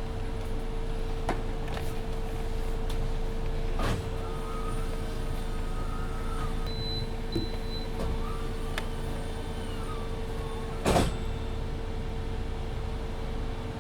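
Inside a MAN Lion's City 19C EfficientHybrid articulated bus: steady running hum with a constant tone, with whining tones that rise and fall twice and a short high beep near the middle. Scattered rattles and clicks run through it, with one loud bang about eleven seconds in.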